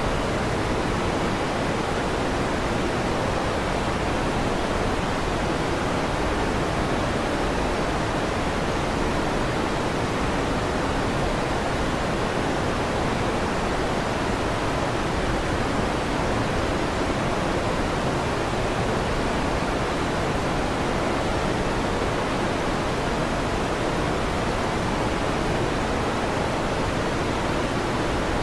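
A fan running steadily: an even rushing noise, strongest low and through the middle, with no change in level.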